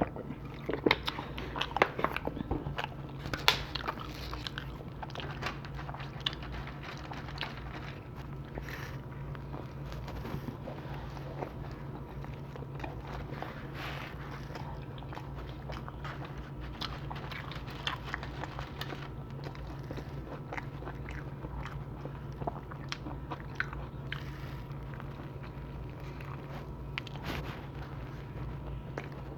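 A person biting and chewing pizza close to the microphone: crunching bites in the first few seconds, then steadier mouth-chewing sounds, over a constant low hum.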